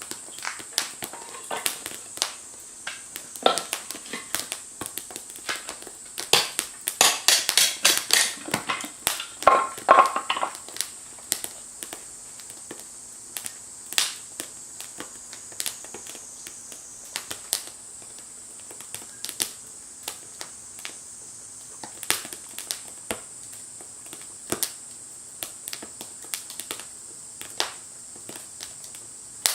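Wood fire crackling in a Firebox stove: irregular sharp pops and snaps, with a busy spell of crackling a few seconds in, then scattered pops.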